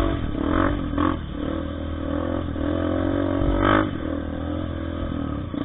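Trail motorcycle engine running, with one brief louder burst a little past the middle.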